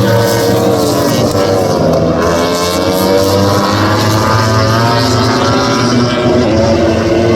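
MotoGP race motorcycles' four-cylinder engines at full racing revs, the pitch rising and falling repeatedly as the bikes accelerate, shift and brake.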